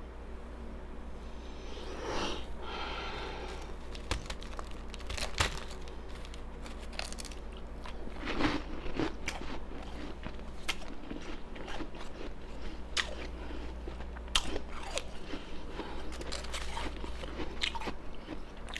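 Ice being bitten and chewed close to the microphone, with irregular sharp crunches and crackles.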